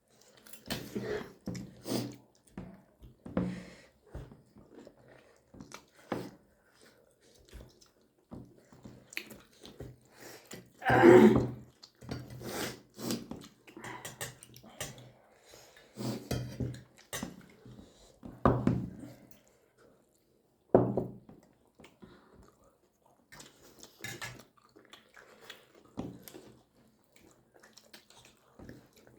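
People chewing and eating momos close to the microphone: scattered wet mouth smacks and clicks, with a few brief vocal sounds, the loudest about eleven seconds in.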